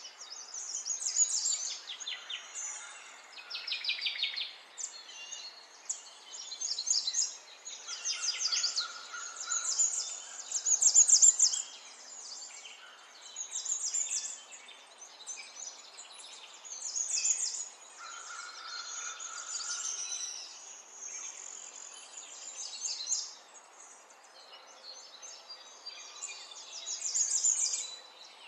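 Small birds chirping and twittering in quick high trills, coming in short bursts every second or two, with an occasional brief steady whistled note.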